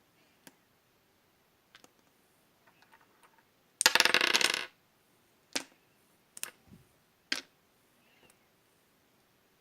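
Clear blue slime being squished and pressed: scattered single sticky pops, and about four seconds in a dense burst of rapid crackling air-bubble pops lasting under a second.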